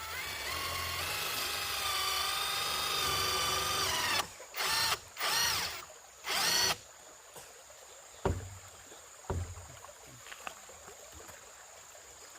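Power drill running with a whine that climbs slowly in pitch for about four seconds, then four short bursts of the drill, followed by two sharp knocks.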